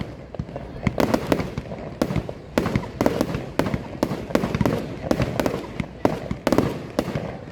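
Aerial fireworks bursting at close range in a steady barrage: sharp bangs about two or three a second, each trailing off into a rumbling echo.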